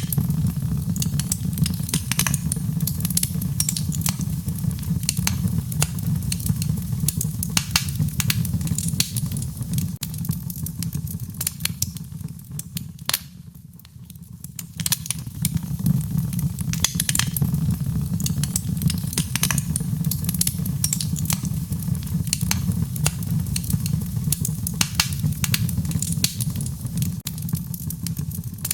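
Wood fire burning in a fireplace, with dense irregular crackles and pops over a steady low rumble of the flames. The crackling eases off briefly about halfway through, then picks up again.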